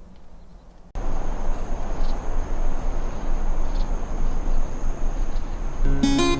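Steady high-pitched insect trilling over a low, noisy background, starting about a second in. Plucked guitar music comes in near the end.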